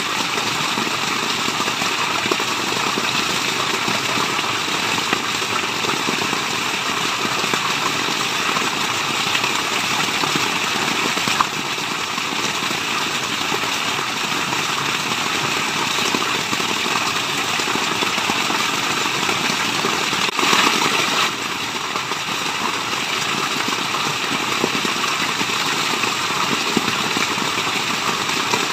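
Steady rush of falling water, an even noise with no breaks, swelling briefly about twenty seconds in.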